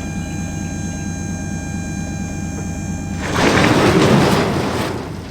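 Loaded dump truck's engine running with a steady low rumble. A steady high tone stops about three seconds in, then a loud rush of noise swells for about a second and a half and fades.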